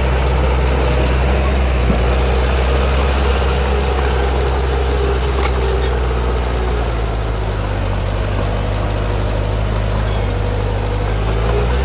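Heavy diesel engine of earthmoving machinery running steadily, its pitch easing slightly lower about seven seconds in.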